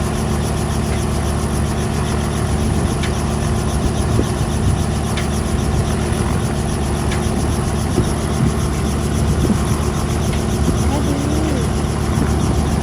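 An engine running steadily at an unchanging pitch, with faint voices and a few light clicks over it.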